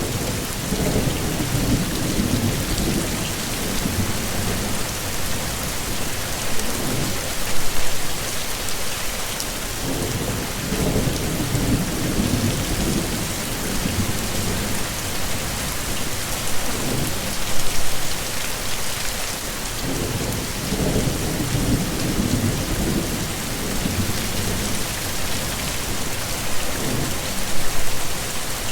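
Heavy, steady rain with low rumbles of thunder rolling in several times, about every ten seconds.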